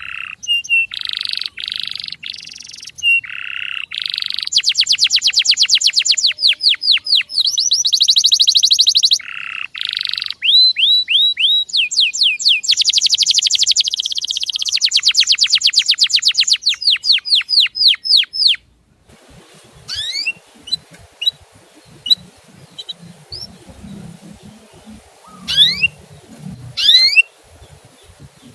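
Canary song: fast trills and rolls of rapidly repeated chirping notes, cut off abruptly about two-thirds through. After that come sparse, quieter rising 'cuit' chirps over a low background rumble.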